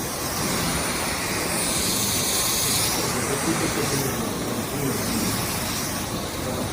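Dyson V12s cordless stick vacuum running steadily, a loud rushing hiss with a thin high whine from the motor. The hiss swells and eases about two seconds in.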